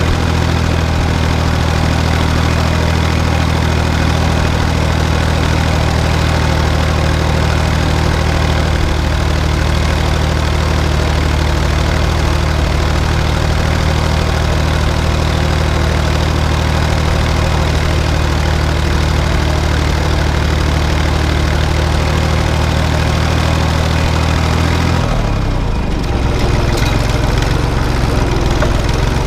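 Tractor diesel engine running steadily while pulling a cultivator through the field. About four-fifths of the way in, its engine note shifts down and wavers briefly before settling again.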